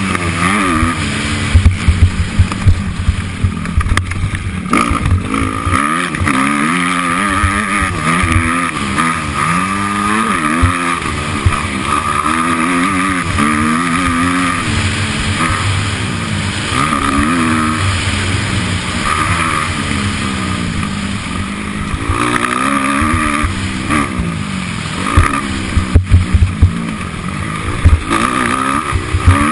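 Motocross motorcycle engine revving up and down over and over as the bike accelerates and backs off around the track. Loud low knocks come in bursts about two seconds in and again near the end.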